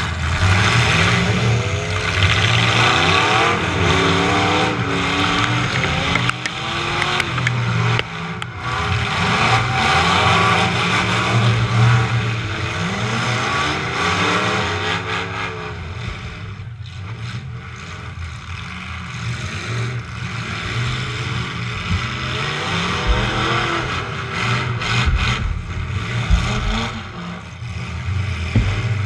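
Demolition derby truck engine revving up and down again and again under hard driving, its pitch rising and falling every second or two. It eases off somewhat in the middle before picking up again.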